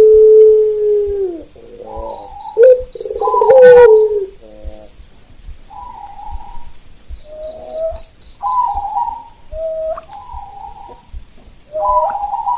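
Zebra doves (perkutut) cooing. A long drawn note falls away at its end, a second loud call comes about three seconds in, and a string of shorter, softer coos follows.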